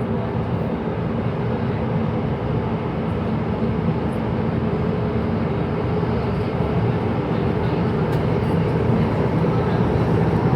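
Downtown Line C951A metro train running between stations, heard from inside the car: a steady rumble of wheels and motors with a faint hum, slowly growing a little louder.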